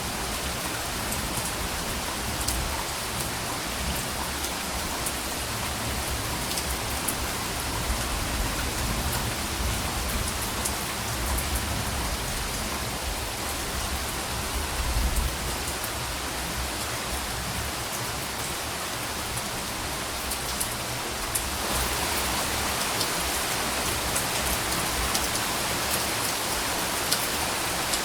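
Steady rain falling, with scattered sharp drop ticks over an even hiss. A low rumble sits underneath in the first half, swelling about 15 seconds in, and a little after 20 seconds the rain turns brighter and slightly louder.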